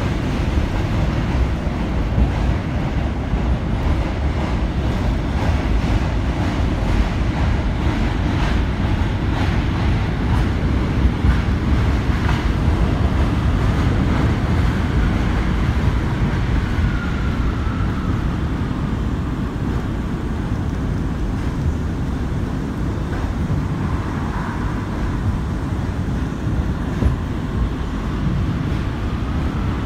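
New York City subway J train running at speed: a steady rumble of wheels on the rails with scattered clicks. A few faint whining tones rise and fall now and then in the second half.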